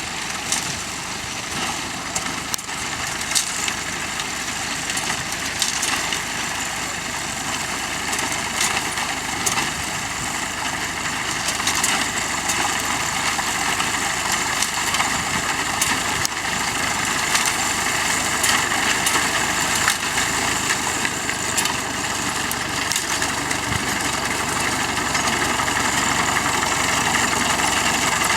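Tractor engine running steadily while pulling a reaper-binder cutting wheat, with scattered clicks and knocks from the binder mechanism. It grows slowly louder toward the end.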